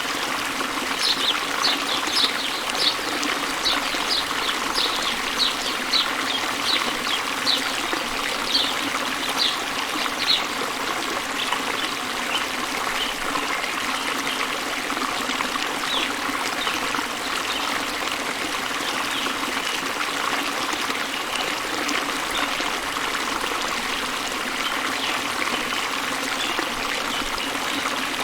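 Waterfall water rushing steadily. Over it a bird repeats a short, high chirp about two or three times a second for the first ten seconds, then gives a few fainter chirps.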